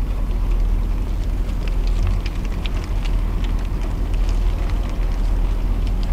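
Car engine idling with a steady low rumble heard inside the cabin, with scattered light clicking from the hooves of a flock of sheep walking on the asphalt around the car.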